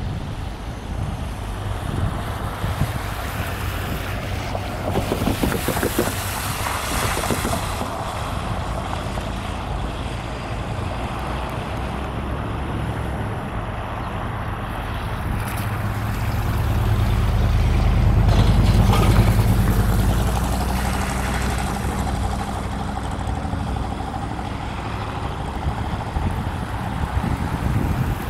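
EMD F40FH diesel-electric locomotives running, their low engine note growing louder to a peak about two-thirds of the way through and then easing off as the train passes, with wind buffeting the microphone.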